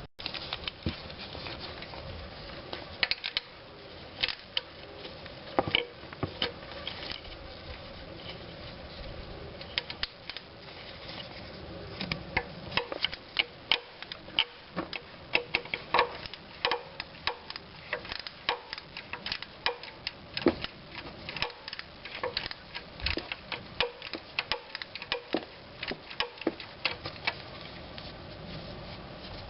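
Hand tools at work on an engine's accessory drive: a run of irregular sharp clicks and light knocks, sparse at first and coming thicker about halfway through, over a low steady background.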